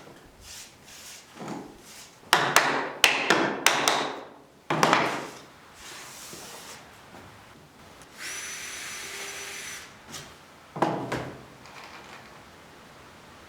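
Tools working wood: several rasping, scraping strokes in quick bursts, a small power tool running steadily for about a second and a half a little after the middle, then one more scraping burst.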